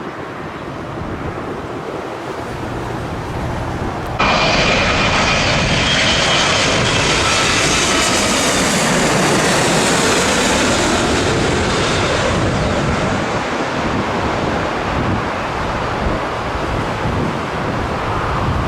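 Jet airliner engines passing overhead: a steady rush of noise with a high engine whine, jumping suddenly louder about four seconds in, the whine fading about twelve seconds in.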